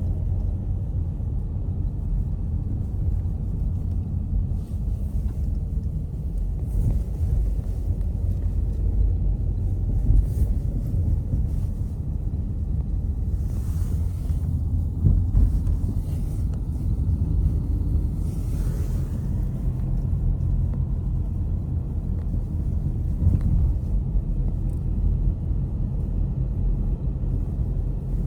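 Steady low rumble of car road noise from a vehicle driving, with a couple of brief hissing swells about halfway through.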